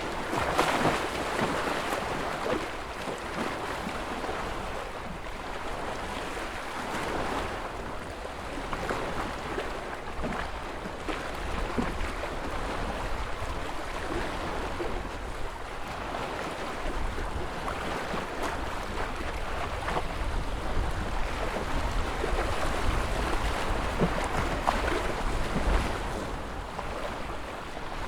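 Ocean surf: waves breaking and washing in a continuous rush that swells and eases every few seconds, with a low rumble that grows stronger in the second half.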